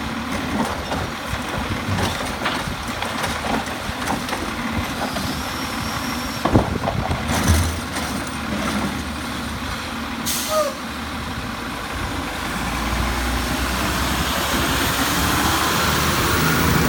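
Heil Rapid Rail automated side-loader garbage truck: its diesel engine running, with several clanks and a short air hiss around ten seconds in. The engine sound builds louder over the last few seconds.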